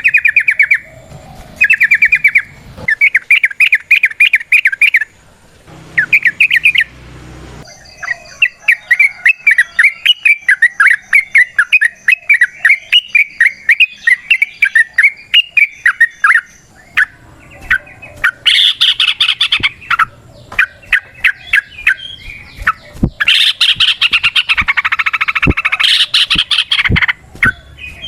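Yellow-vented bulbul (trucukan) singing its long rapid song: loud bursts of fast bubbling notes, one unbroken run lasting several seconds in the middle, then a denser, harsher stretch of chatter in the second half.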